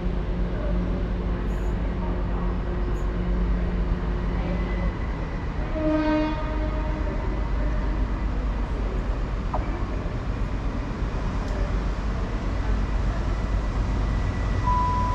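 Train running at a station platform with a steady low rumble. A short horn toot about six seconds in, and a brief two-note tone stepping down near the end.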